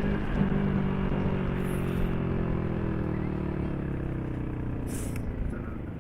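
Motorcycle engine running while riding, its note falling slowly and steadily as the bike slows down, over steady wind and road rush.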